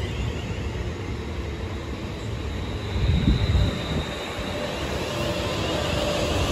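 Passenger trains running through the station: a steady low rumble with a faint high whine, and a steady mid-pitched tone joining in after about five seconds.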